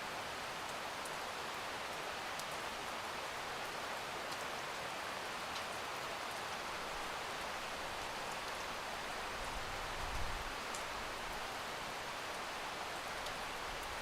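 Steady rainfall hiss with occasional sharp drop ticks. A brief low rumble swells about ten seconds in.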